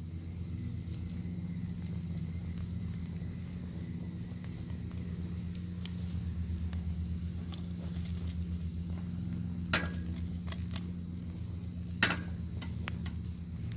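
Bacon sizzling over a wood fire: a steady frying hiss with scattered sharp pops and crackles, two louder pops near the end. A steady low hum runs underneath.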